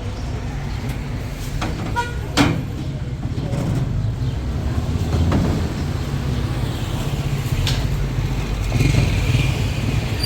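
Steady low rumble of motor traffic, with scattered clicks and knocks and one sharp knock about two and a half seconds in.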